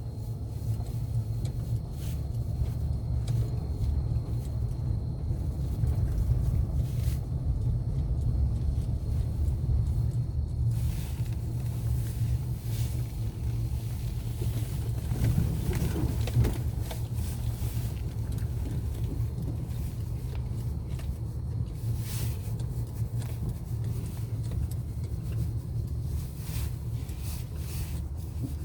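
Car driving with a steady low road and running rumble; about halfway through a short creak is heard, which the owner suspects is a squeak in the suspension.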